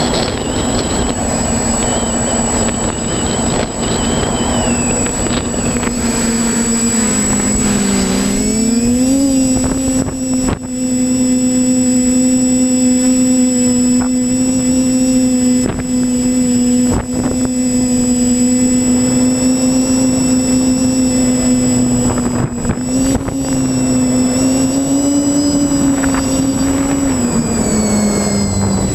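Quadcopter's electric motors and propellers whining steadily, the pitch dipping and rising a few times as the throttle changes, with wind hiss over the microphone early on and a few brief knocks.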